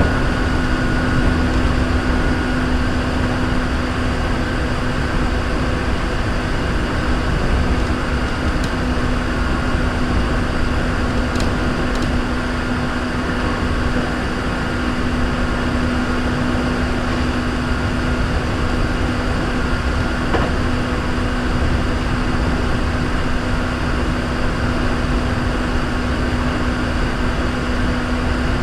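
Hankyu 3300 series electric commuter train heard from inside the car while running between stations: steady rumble of wheels on rail with a constant hum, its pitch holding level, and a few faint clicks.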